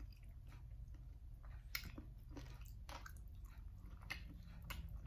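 A person chewing bony chicken feet up close, with scattered small clicks as the bones and cartilage are worked in the mouth. A low steady hum runs underneath.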